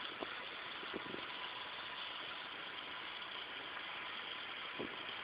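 Model steam engine hissing steadily as its boiler comes up to pressure, with a few faint knocks.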